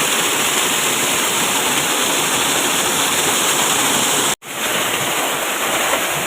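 Steady rushing water, a dense even hiss like a waterfall or fast stream. It cuts out for an instant about four seconds in, then carries on as before.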